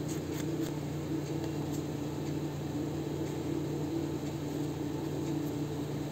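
Steady low hum of a running machine, such as a fan, with a few faint light ticks.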